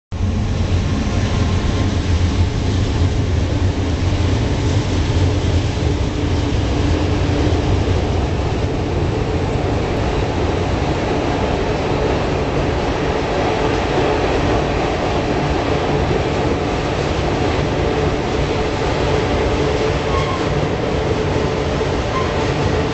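Diesel-hauled freight train crossing a steel truss railroad bridge overhead: a loud, steady rumble with wheels clattering on the rails. The deep low rumble is heaviest in the first several seconds as the locomotive passes, then gives way to the steadier clatter of the freight cars rolling across.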